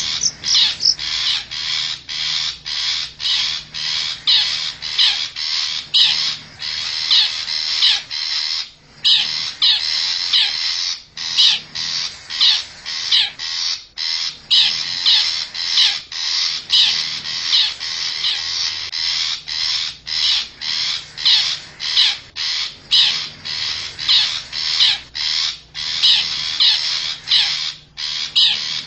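Long-tailed shrike (cendet) giving a long, unbroken run of harsh, scratchy calls, about two a second.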